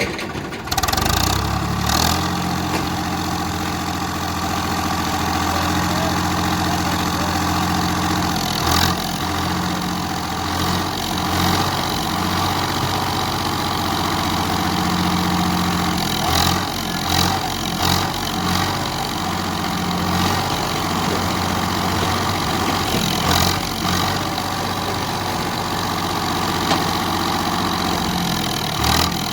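A tractor's diesel engine runs steadily at a low, even speed. It grows suddenly louder about a second in, and a few short clanks sound over it.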